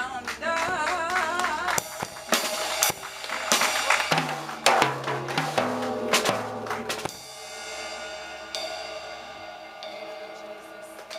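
Live gospel band closing out a song: a last wavering held note for about two seconds, then drum-kit fills with snare and cymbal crashes over bass notes, ending on a sustained chord that rings on and thins out.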